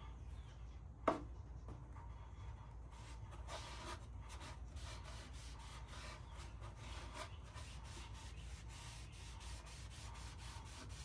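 A rag rubbing tung oil finish into a wooden shelf: a single knock about a second in, then quick repeated wiping strokes across the wood.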